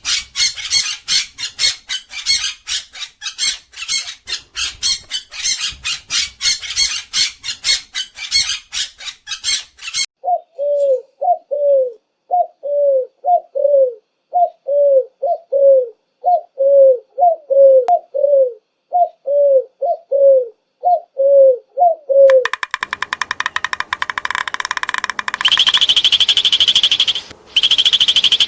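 A series of recorded bird calls played one after another. First comes rapid high chirping at about four chirps a second. About ten seconds in, it changes to low, falling cooing notes, mostly in pairs, and about twenty-two seconds in to a fast buzzing trill.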